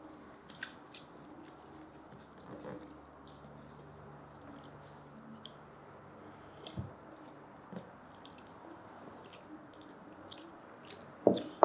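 Faint close-up eating sounds: chewing and small wet clicks as grilled chicken shashlik is eaten, with a short louder sound near the end.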